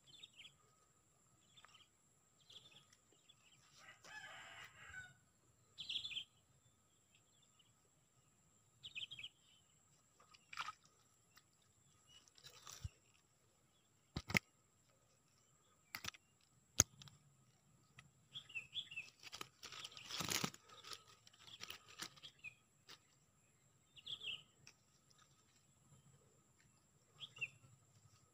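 Faint bird calls: short high chirps every few seconds, with a longer call about four seconds in, and a few sharp clicks in between.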